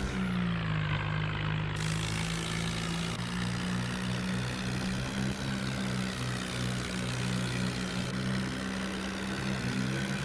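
Swaraj tractor's diesel engine running steadily while driving. Its pitch drops about a second in, holds, and rises a little near the end.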